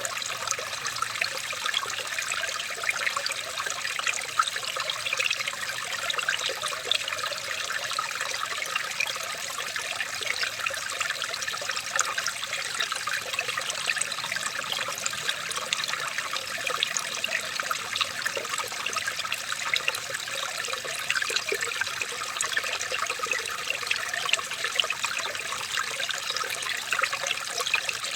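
Running water trickling steadily, many small splashes over an even rush.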